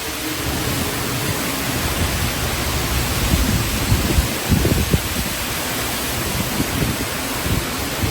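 Typhoon wind and heavy rain: a steady rushing hiss, with gusts buffeting the microphone in low rumbles several times.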